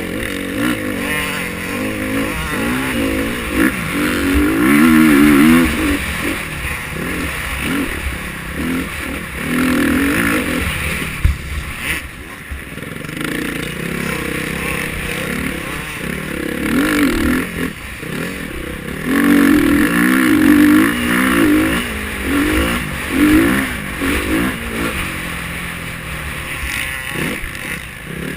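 KTM 350 XC-F four-stroke single-cylinder dirt bike engine revving up and backing off over and over while riding, with loud surges of throttle about five seconds in and again near twenty seconds.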